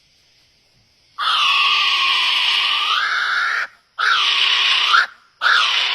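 A bird giving harsh, rasping screams: one long scream starting about a second in, then two shorter ones.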